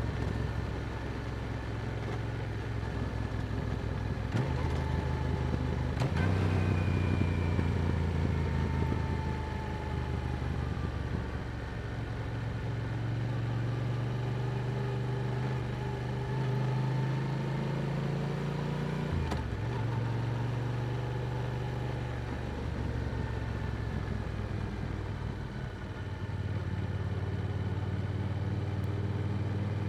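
Yamaha R7 sport bike's parallel-twin engine running through an Akrapovic exhaust on the move. Its pitch jumps abruptly several times as it shifts gear, and drifts up and down between the shifts.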